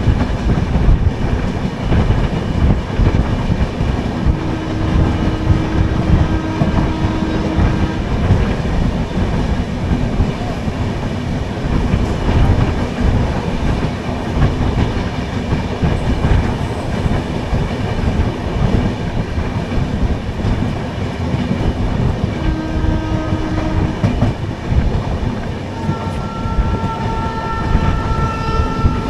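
Sleeper-class coach of an Indian express train running, a steady rumble with the wheels clattering over the rail joints, heard at an open coach door. A few brief steady tones sound over it, a higher one near the end.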